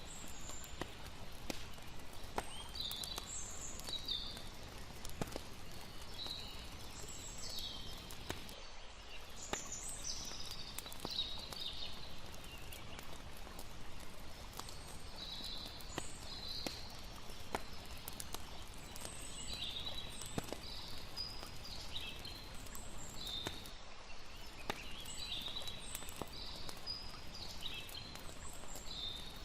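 Night nature ambience: campfire crackling in scattered sharp pops, with repeated high chirping calls over a steady hiss of water. The sound briefly thins out twice, about nine seconds in and near twenty-four seconds.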